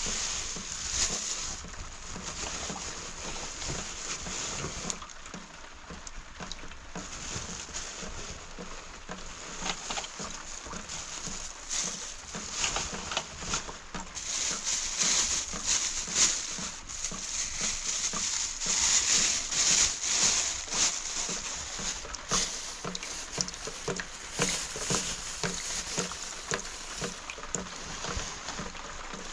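Steady rain pattering: a dense hiss full of small taps, heavier for a few seconds in the middle.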